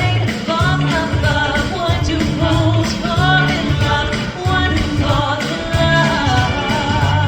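A vocal group singing in harmony over band or backing music with a steady, stepping bass line.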